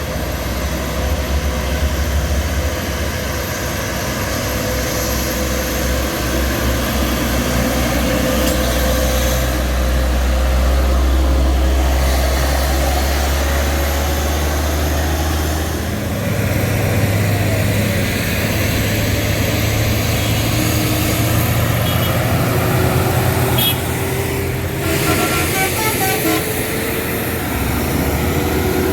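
Heavy truck engine running steadily under load; about halfway through its note steps up as it revs higher. A few short beeps come about two-thirds of the way in.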